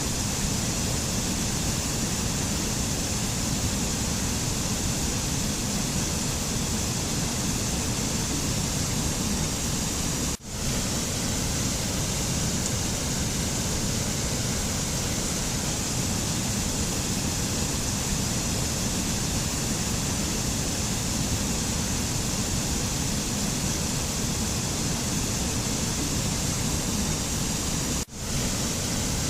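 Steady rushing noise of a mountain nature-sound recording, even and unbroken except for two brief dropouts, one about ten seconds in and one near the end.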